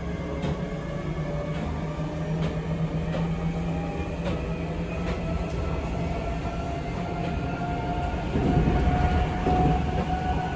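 Seibu 6000 series electric train running, with the traction motor whine of its Mitsubishi SiC-VVVF drive rising slowly in pitch as the train gathers speed. Wheels click over rail joints, and a louder rumble comes about eight seconds in, heard from inside the carriage.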